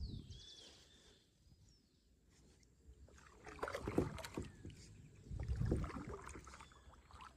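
Kayak paddle strokes splashing in the water, two main strokes about a second and a half apart in the second half.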